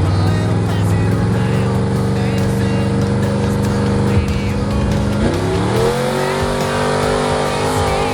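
Truck engine running hard at high revs during a truck pull, its pitch steady, then rising about five seconds in and holding at the higher note.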